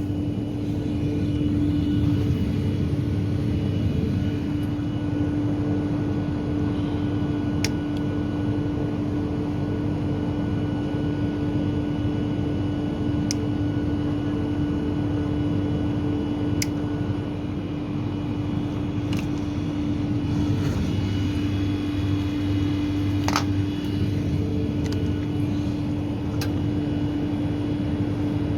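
Steady machinery hum with a constant low tone, broken by a few light, sharp clicks of parts being handled.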